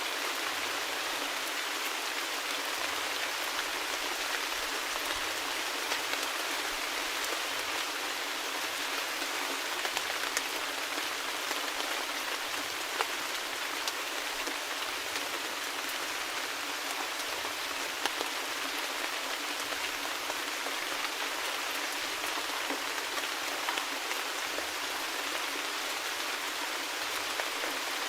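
Steady rain falling: an even hiss with scattered sharper taps of single drops.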